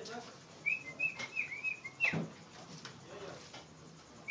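Oriental magpie-robin (kacer) calling: a quick string of short chirping notes about a second in, then a single falling note.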